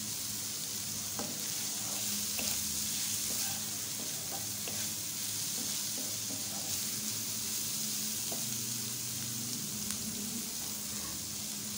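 Shredded chicken and chopped green chillies sizzling gently in oil in a non-stick wok over a low flame, with occasional scrapes and taps of a spatula stirring them against the pan.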